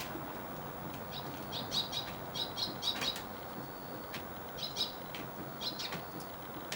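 A small songbird chirping: short high notes in quick clusters of two to four, twice with a pause between, over a steady background hiss.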